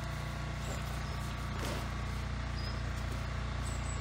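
Car engine idling steadily, with a few faint high bird chirps.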